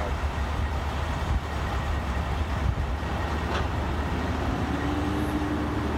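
Steady low engine and road rumble inside a moving truck's cab, with a steady hum joining near the end.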